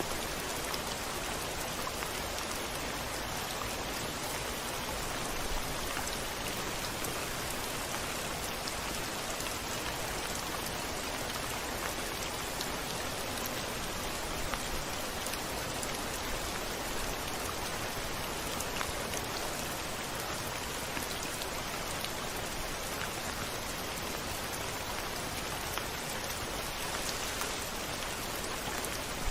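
Steady rain falling on a window, an even hiss with scattered ticks of single drops striking the glass; no thunder.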